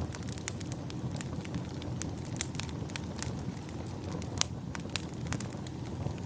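Wood fire crackling in a fireplace: frequent sharp pops and snaps at irregular moments, the loudest about four seconds in, over a steady low rumble.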